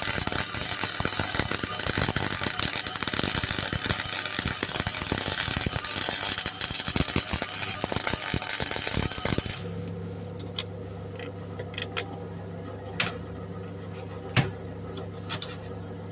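MIG welding arc on 1 mm steel sheet, a steady loud crackle of rapid clicks that cuts off suddenly about nine and a half seconds in. A steady low hum remains afterwards, with a few scattered clicks.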